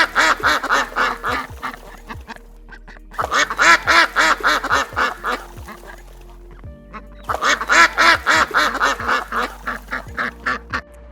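An animal calling in three bursts of quick, repeated arched notes, each burst about two seconds long, over soft background music with a steady beat.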